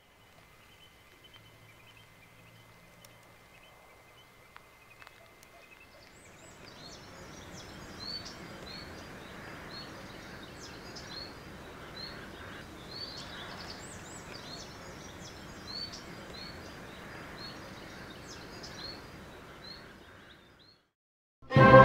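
Outdoor ambience: a steady hiss with a bird chirping over and over, short high calls repeated through most of it. The first few seconds are fainter, with a thin steady tone. It all cuts off shortly before the end.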